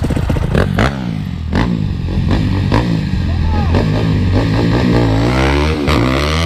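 Dirt bike engine revving hard through a burnout. From about five seconds in, its pitch climbs and falls in repeated sweeps.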